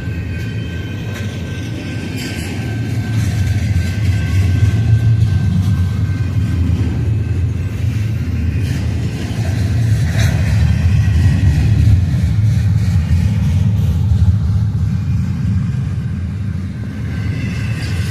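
Freight cars of a Union Pacific intermodal train rolling past: a steady, loud low rumble of wheels on rail, with a few sharp clicks.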